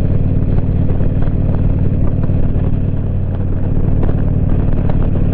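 Motorcycle engine running steadily at cruising speed, with an even low note that holds without revving up or down.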